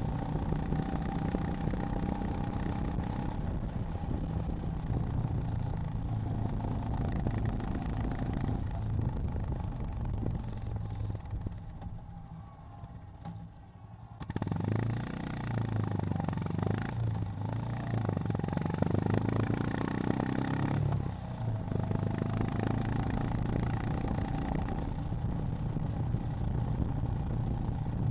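Honda GB350's air-cooled single-cylinder engine running at road speed. About halfway it drops away for a few seconds, then comes back abruptly and pulls harder for several seconds before settling to a steady cruise.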